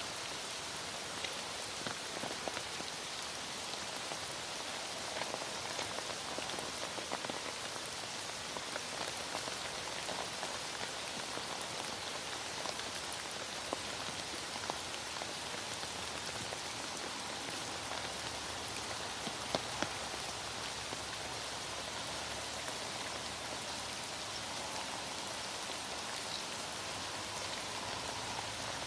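Heavy rain falling steadily, an even hiss with individual drops ticking now and then.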